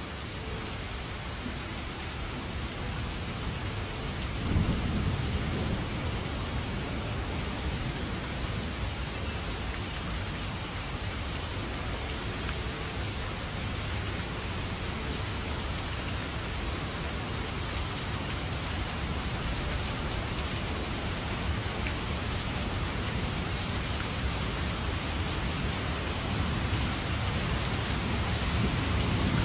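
Heavy rain pouring steadily, with a low roll of thunder about four seconds in and another rumble building near the end.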